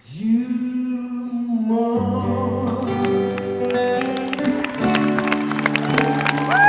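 Live pop-ballad music: a man's voice holds one long closing note over acoustic guitar picking, with a low bass note coming in about two seconds in.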